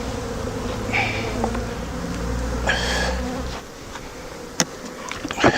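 Many honeybees buzzing in a steady hum around an open hive, agitated after being shaken out of their frames. A few short rustles of handling, and a couple of sharp knocks near the end.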